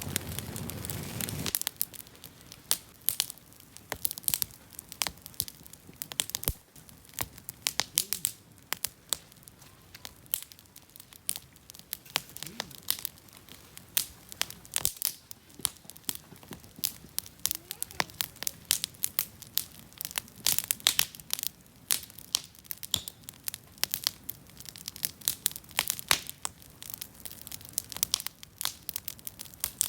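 Campfire crackling, with many sharp, irregular pops and snaps. A louder rushing noise at the start cuts off about a second and a half in.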